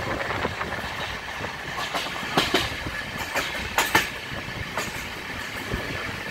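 Moving passenger train heard from an open coach doorway: a steady rumble and rush of running noise, broken by sharp clacks of the wheels over rail joints, bunched about two and a half and four seconds in.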